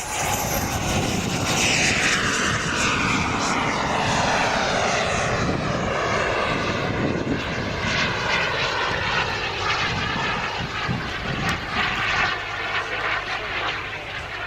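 Jetcat P120 turbine of a BVM Super Bandit RC model jet flying past: a loud jet whine that drops in pitch over a few seconds as the jet goes by, then keeps running steadily.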